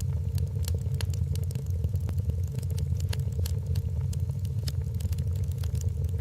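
Wood fire in a fireplace crackling, with many quick irregular pops over a steady low rumble of the flames.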